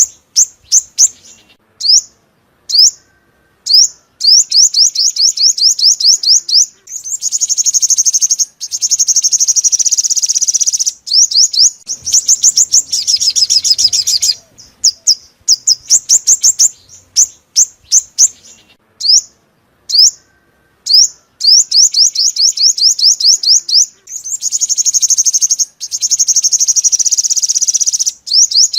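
Sunbird song: rapid, high, thin trills broken by short pauses, with two longer buzzy, chattering phrases. The same sequence repeats, as a looped trapping-lure recording would.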